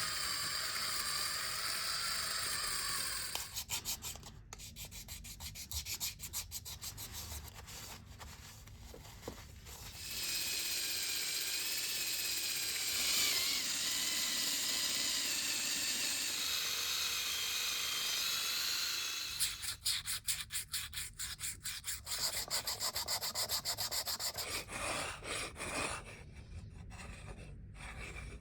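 Sanding and rubbing work on parts of a vintage coffee grinder. A small power tool runs steadily for the first few seconds and again for about nine seconds in the middle. Between and after those stretches come uneven rhythmic hand strokes.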